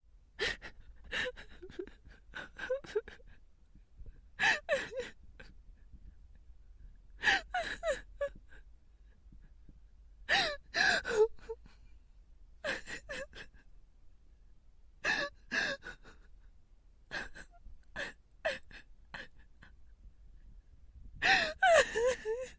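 A person crying: short bursts of sobbing with gasping breaths, one every two to three seconds, with quiet between them.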